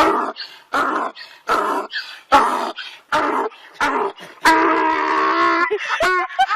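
An animal calling: a run of short, harsh calls about one every second, then one long drawn-out pitched call lasting about a second.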